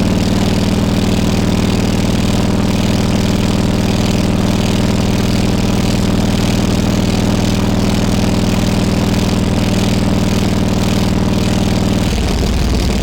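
Harley-Davidson Road King Classic's V-twin engine idling steadily, its note changing near the end.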